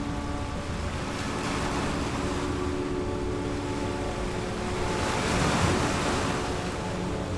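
Ocean waves washing in, one wave swelling and breaking a little over five seconds in. Under them a steady, sustained drone of relaxation music holds several even tones.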